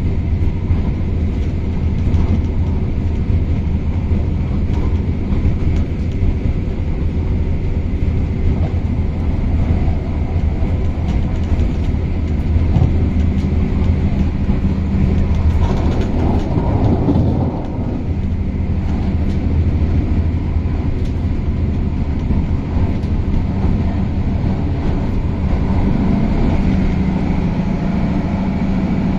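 MTR Tung Chung Line CAF electric train running, heard on board: a steady rumble of wheels on rail with a low hum that comes and goes.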